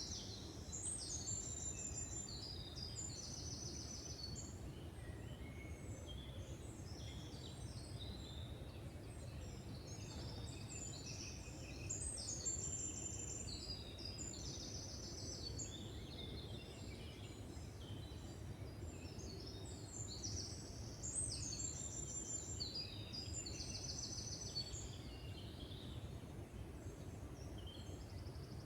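Several songbirds singing in woodland, one repeating a short trilled phrase every few seconds, over a steady low background rumble.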